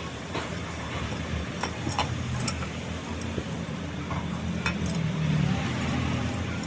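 Steady low machine hum with scattered light clinks and clicks.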